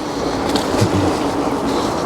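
Steady rolling rumble and light rattle of a bike's wheels moving along the path.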